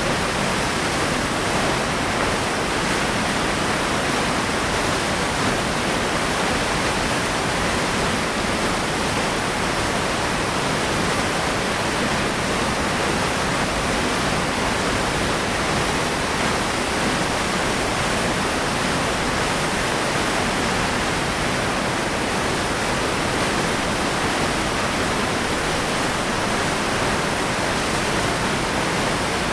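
Waterfall gushing: a steady, unbroken rush of falling water.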